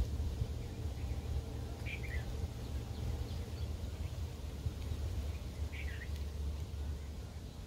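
Outdoor field background: a steady low rumble with two short, falling bird chirps, about two seconds in and again about six seconds in.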